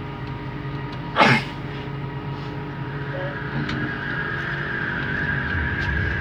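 Cabin sound of a Bombardier Innovia Metro 300 train running on its linear induction motor, a steady hum with a whine that builds from about three seconds in. About a second in, one short, loud burst cuts through, and there are a few faint ticks later.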